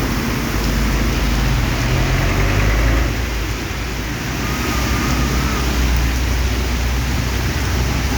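Heavy rain falling, with the low rumble of road traffic under a steady hiss of rain; the rumble eases about three seconds in and builds again.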